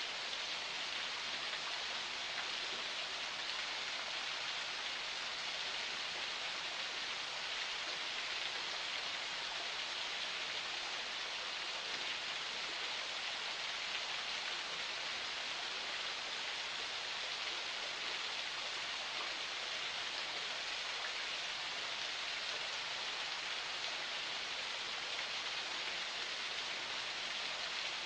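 Forest spring water flowing steadily, an even, unbroken rush of water with no separate splashes.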